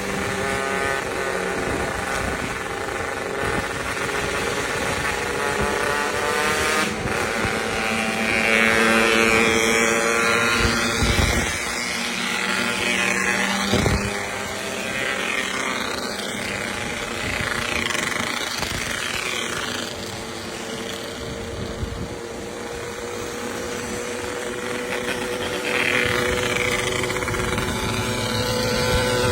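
Yamaha RX-King two-stroke motorcycle engine running with a crisp exhaust note, its pitch climbing and falling a few times with the revs.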